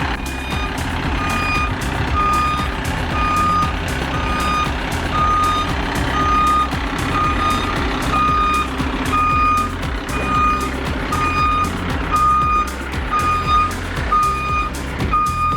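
Truck backup alarm beeping at an even pace, a single short tone a little more than once a second, as the truck reverses.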